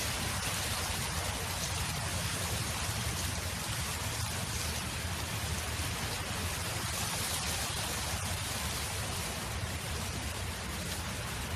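Wind blowing steadily across a field: a continuous hiss with a low rumble underneath.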